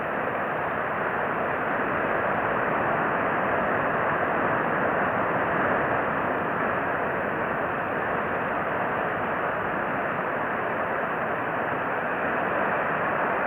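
Steady rushing background noise, even throughout, with no distinct calls or other events.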